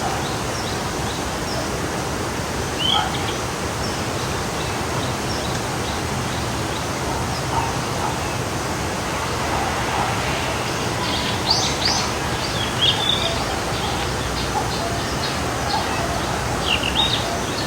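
Forest stream flowing with a steady rush, with birds chirping over it: a short call about three seconds in, a quick run of calls a little past the middle, and another near the end.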